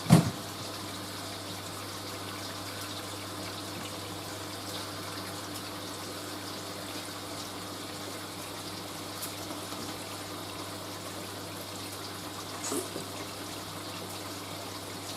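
Hoover A3060 washing machine filling with water at the start of its wash cycle: a steady rush of water running in through the detergent drawer into the drum.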